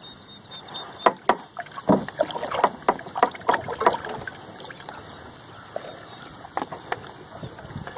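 A run of sharp knocks and clatter on a small boat, thickest between about one and four and a half seconds in, with a few more knocks near the end, over a steady low hiss.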